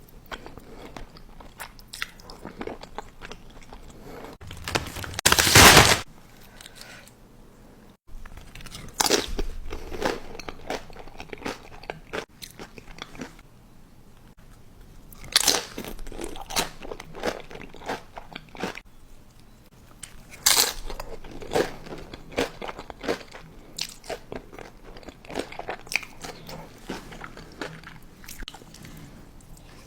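A person biting into and chewing crunchy food close to the microphone: a run of sharp crunches and chewing, with several loud crunching bites about five, fifteen and twenty seconds in.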